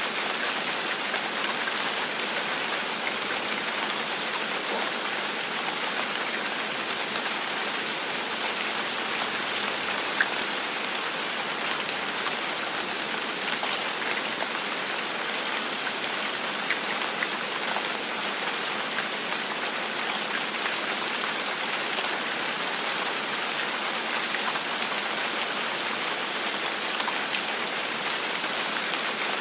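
Steady gentle rain, an even hiss of drops with scattered single drop ticks standing out now and then.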